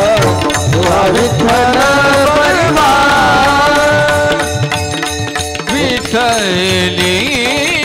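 Devotional kirtan music: a singer's voice with a sliding, ornamented melody over steady held accompaniment, and mridang and tabla drum strokes beneath.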